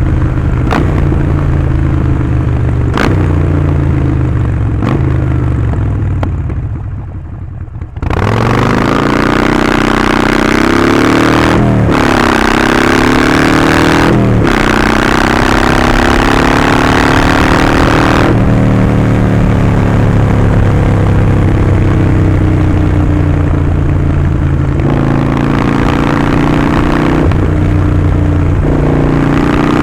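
Harley-Davidson Sportster 48's 1200 cc air-cooled V-twin through Vance & Hines slip-on exhaust, under way: it eases off and quietens, then opens up loudly about eight seconds in, revving up through two gear changes, each marked by a drop in pitch. It then holds a steady cruise, with a brief lift off the throttle and another pull near the end.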